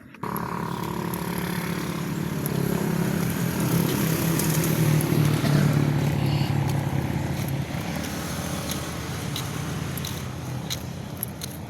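An engine running steadily, starting abruptly right at the beginning, growing a little louder in the middle and easing off toward the end.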